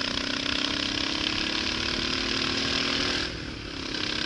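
Motorcycle engine revving hard under acceleration, its pitch climbing steadily, then easing off about three seconds in before picking up again: the bike is accelerating to overtake a car.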